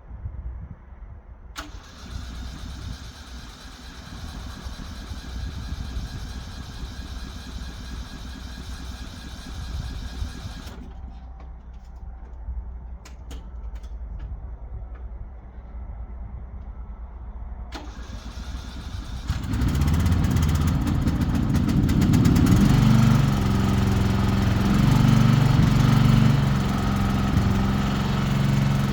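A riding lawn mower's small gasoline engine starts about two-thirds of the way in and keeps running steadily. Before that there is quieter shop noise with a few sharp clicks.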